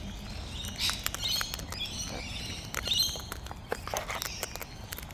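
Birds chirping and chattering in short, high calls, with scattered light clicks and taps.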